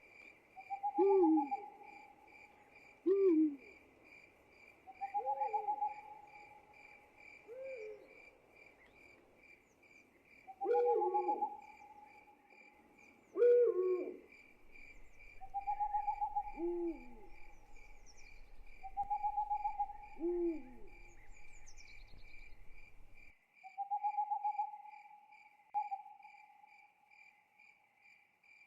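Owls calling at night, repeated hoots and short trilling calls every few seconds, over a steady, fast-pulsing chorus of crickets.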